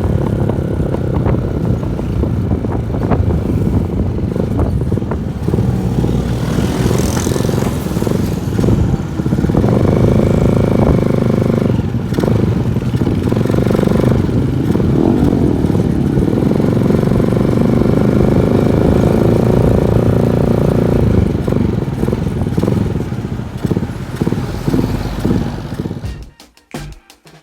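Honda TMX 155's single-cylinder four-stroke engine through an aftermarket SC Project muffler, ridden on the road: a loud exhaust note that rises and falls with the throttle through the gears. Rapid popping backfires come on deceleration, which is normal for this pipe. The engine sound fades away near the end.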